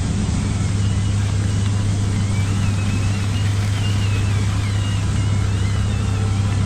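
Electric motors and gearboxes of radio-controlled model construction machines running, a steady hum under a gear whine that wavers up and down in pitch as they work.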